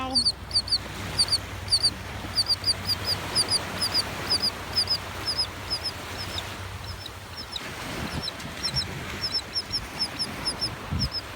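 Female gull calling without letting up: short, high-pitched notes, mostly in quick pairs, about two pairs a second, directed at her mate, over a steady background hiss.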